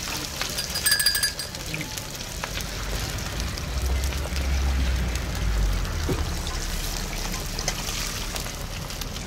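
Chapli kebab patties deep-frying in a wide pan of hot oil: a steady sizzling hiss, with a short metallic ring about a second in.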